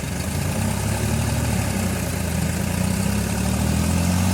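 Tractor's diesel engine running steadily, growing louder and slightly higher in pitch.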